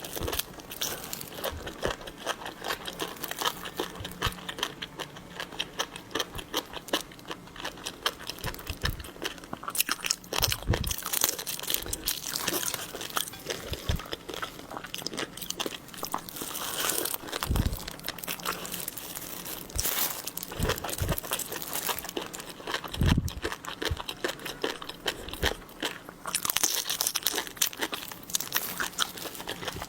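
Close-miked eating of shrimp and other shellfish: dense crackling and crinkling as shells are handled and peeled, with crunchy bites and chewing. A few duller low thumps stand out, around a third of the way in, a little past halfway, and about three quarters through.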